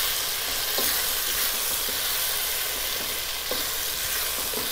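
Chopped tomatoes and onions frying in oil in a non-stick kadai, a steady sizzle, while a spatula stirs and scrapes the pan a few times.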